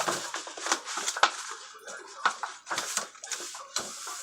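Sheet of paper being unfolded and handled, crinkling and rustling in a quick, irregular run of sharp crackles.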